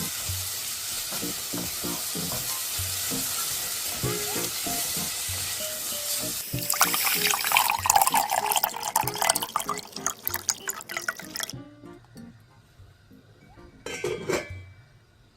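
Water running and splashing, loudest and most turbulent from about six and a half seconds to about eleven and a half seconds, then cutting off, over soft background music.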